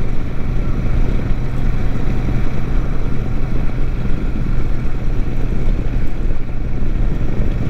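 Royal Enfield Super Meteor 650's parallel-twin engine running at a steady cruising speed, a constant low hum with rumbling underneath, heard from the rider's seat.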